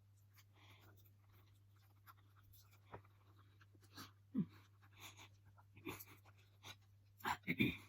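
Quiet eating sounds: scattered small clicks of utensils and mouth sounds. There is a short low sound about four and a half seconds in and a louder cluster of breathy mouth sounds near the end.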